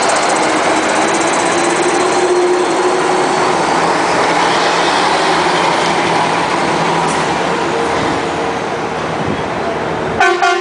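Engines of classic trucks running as they pass in a parade, with a crowd's voices mixed in. A vehicle horn sounds briefly near the end.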